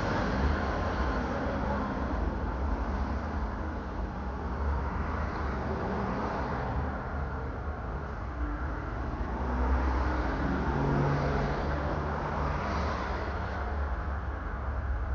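Road vehicle noise: a steady low rumble with tyre hiss, swelling for a few seconds about ten seconds in.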